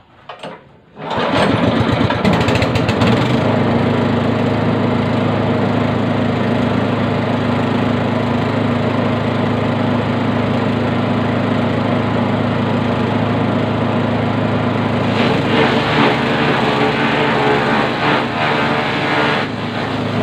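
Grass chopper machine starting up about a second in, coming up to speed and then running steadily at a constant pitch, with some extra irregular rattling from about 15 to 19 seconds in.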